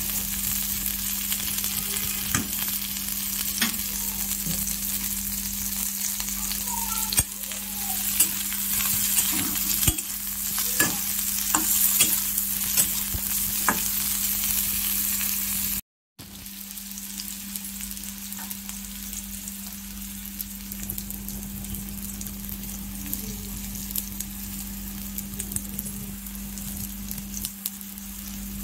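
Bitter gourd slices sizzling as they fry in oil in a wok, with a spatula clicking and scraping against the pan as they are stirred through the first half. After a brief cut about halfway through, the sizzle goes on quieter and with little stirring.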